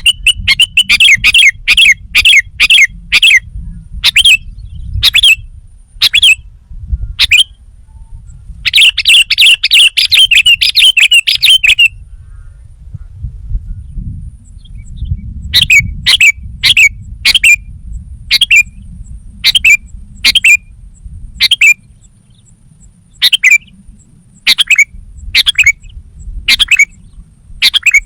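Sooty-headed bulbul calling loudly in short, sharp, repeated notes. A dense chattering run comes about nine seconds in, then a pause of a few seconds, then single calls roughly a second apart.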